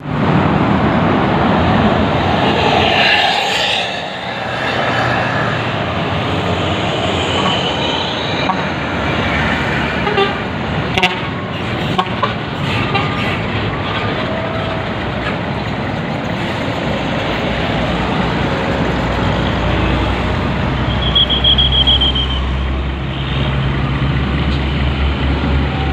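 Road traffic noise with a heavy truck's engine running, its low hum rising in the last third. A short high horn toot of about a second sounds a little past the four-fifths mark.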